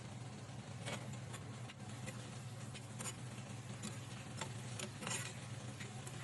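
Spatula stirring sliced squid with onion, garlic and ginger in hot oil, with irregular scraping and tapping against the pan over a soft sizzle. A steady low hum runs underneath, from an air purifier set to turbo.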